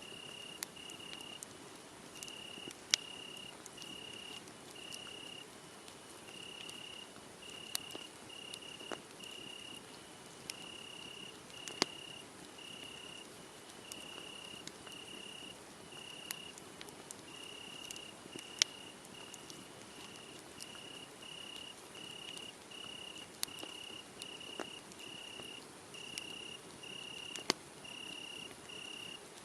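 Crickets chirping in an even, steady rhythm, about three chirps every two seconds at one high pitch, over a wood fire that crackles with a sharp pop every few seconds.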